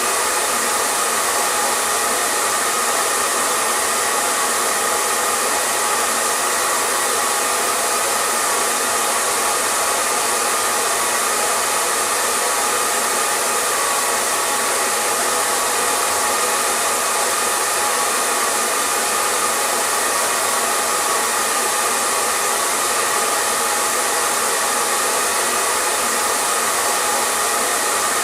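Hair dryer running steadily, a constant blowing rush with a faint motor whine and no change in speed.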